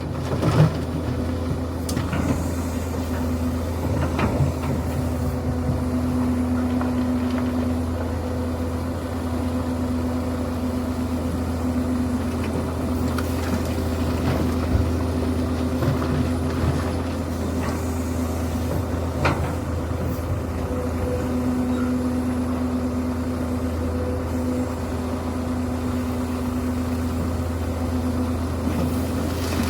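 Link-Belt excavator's diesel engine running steadily with a constant hum that swells a little at times, with a few sharp knocks scattered through.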